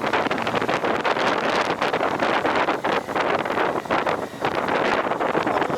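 Steady wind rushing over the microphone while riding, a loud dense rush with no clear engine tone.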